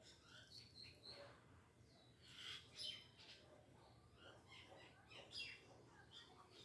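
Faint bird chirping: scattered short, high chirps, with a louder cluster about two and a half seconds in and another about five and a half seconds in.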